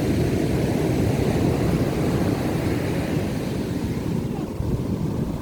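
Strong ocean surf rolling and breaking: a steady low rumble of waves that eases slightly after about four seconds.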